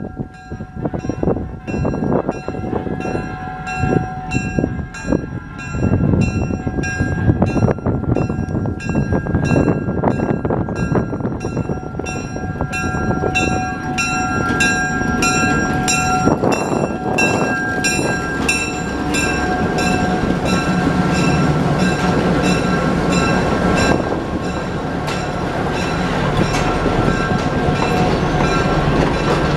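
Locomotive bell ringing steadily, about two strokes a second, over the rumble of a train that grows louder from about six seconds in.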